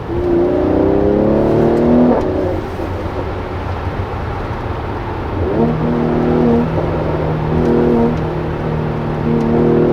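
Mercedes-AMG C43's bi-turbo V6 accelerating, its pitch rising for about two seconds before dropping sharply at a gear change. It then runs at a steadier pitch.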